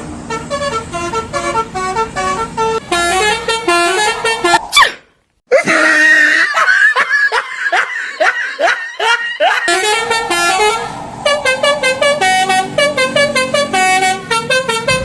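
Indonesian 'telolet' musical bus horn of the Basuri type playing quick stepping tunes. Just under five seconds in the sound drops out for about half a second; it comes back as a run of swooping up-and-down pitch glides, and then the stepping tune returns.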